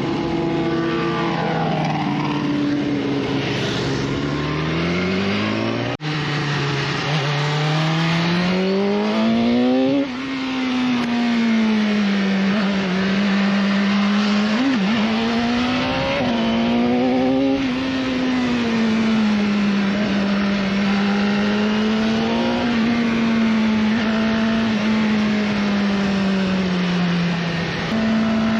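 BMW S1000RR inline-four engine under way. It revs up twice in the first ten seconds, with a sudden brief break about six seconds in, then drops sharply. After that it runs at a fairly steady speed with small rises and dips.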